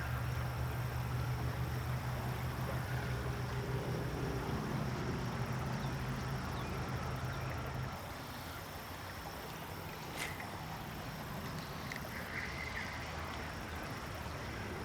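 Shallow creek water running, with a steady low motor hum that drops away about eight seconds in and a single faint click near ten seconds.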